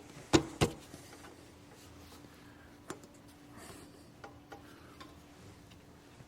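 Two sharp knocks about a third of a second apart, then a few lighter clicks and taps, from tools and metal or plastic parts being handled during repair work. A faint steady hum runs underneath.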